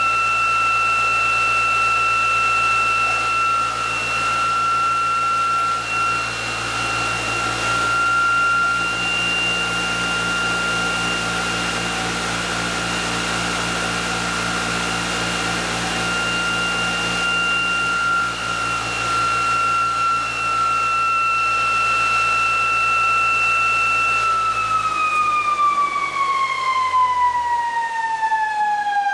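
Coupled electric motors of a ReGenX quantum motor test rig, spinning at about 3,500 RPM, give a steady high-pitched whine over a low hum. About 25 seconds in, the hum drops away and the whine falls steadily in pitch as the motors spin down.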